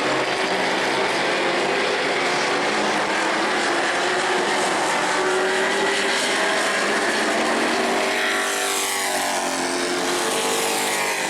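Race trucks' engines running at speed in a pack, several engine notes overlapping. Near the end one truck passes close, its pitch falling as it goes by.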